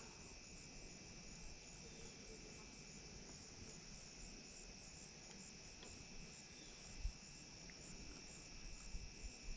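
Insects chirring steadily in a high-pitched chorus with a faint regular pulsing, heard faintly. A soft low bump about seven seconds in.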